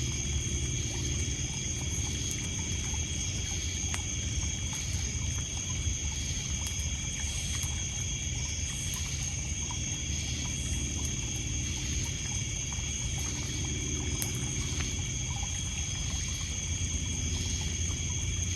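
Night ambience: crickets and other insects trilling in steady high tones, water lapping and trickling on a pebble beach underneath, and faint scattered crackles from a wood campfire.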